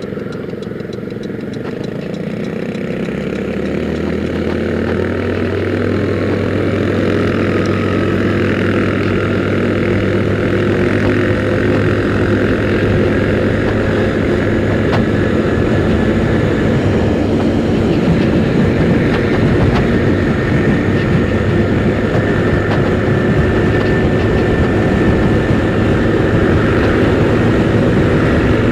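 Motor scooter engine running during a ride, with road and wind noise, getting louder over the first several seconds and then holding steady.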